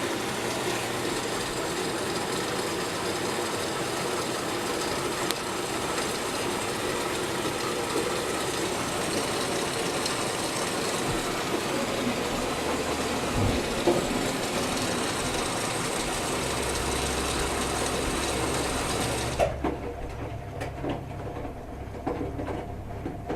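Whirlpool Duet Sport front-load washer running a wash cycle: a steady rushing hiss that cuts off suddenly about 19 seconds in, leaving a low hum with scattered clicks and knocks.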